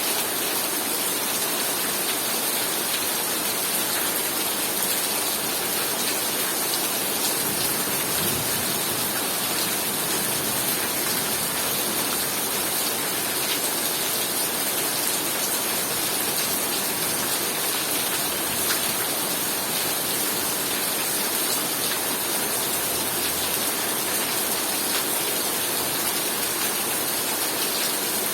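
Heavy rain pouring down steadily, a dense even hiss with faint patter of individual drops.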